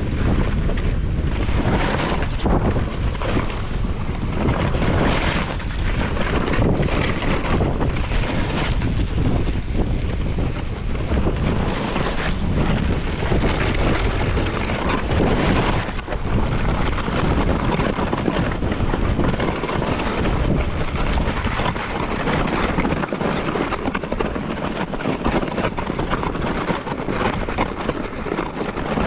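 Wind rushing over the microphone while snowboarding downhill, with the board scraping across the snow in uneven surges.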